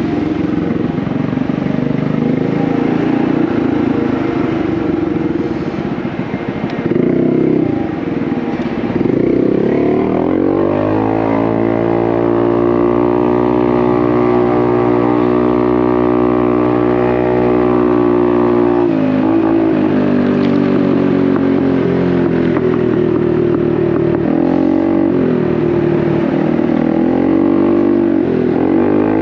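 Honda Navi's single-cylinder engine running through an aftermarket Vance & Hines exhaust while being ridden. The engine is low and uneven at first, then rises in pitch about ten seconds in and holds steady. It drops and climbs again a few times near the end as the throttle is eased off and reopened.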